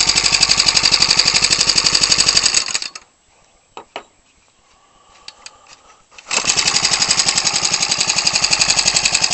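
Ryobi 29cc four-stroke engine running with an 18x6 wooden propeller: a steady, fast-pulsing exhaust beat. About three seconds in the sound drops away to a near-silent gap with a few clicks, then returns abruptly at full strength about three seconds later.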